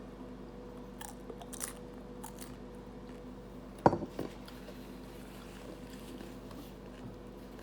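Chewing and crunching on food at the table, with faint scattered crunches and one sharp loud crunch about four seconds in, over a steady low hum.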